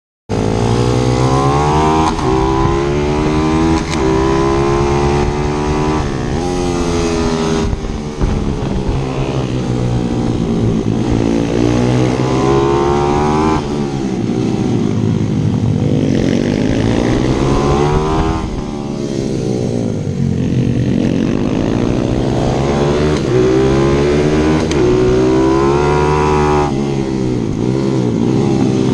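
Z155 pit bike engine heard onboard, revving hard and then falling back again and again, its pitch repeatedly climbing and dropping as it accelerates and comes off the throttle. The sound cuts in suddenly just after the start.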